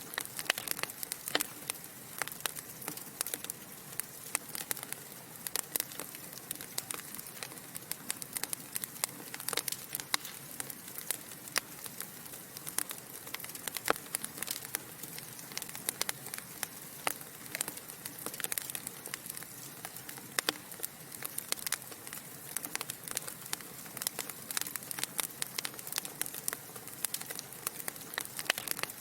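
Wood fire burning in a fireplace, with frequent irregular crackles and pops over a steady soft hiss.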